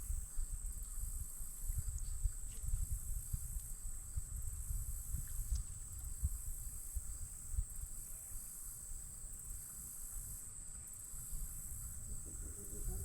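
Steady high-pitched insect chorus, a constant shrill drone that swells and fades in slow pulses, over a low rumble.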